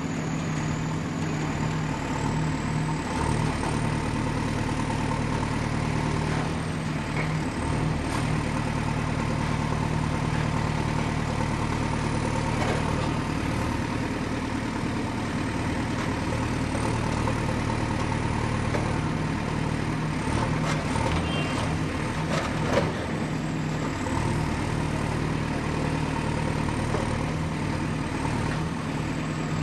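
Excavator's diesel engine running steadily, with a short run of knocks and clanks about two-thirds of the way through, the last one the loudest.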